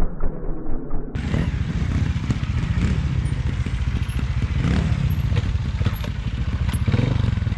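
Trials motorcycle engine running at low revs, with scattered knocks and clatter. The sound changes abruptly about a second in, at an edit.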